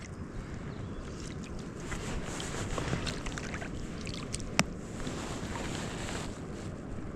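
Steady low rumble of wind on the microphone over water, with a few light clicks and one sharp click about four and a half seconds in.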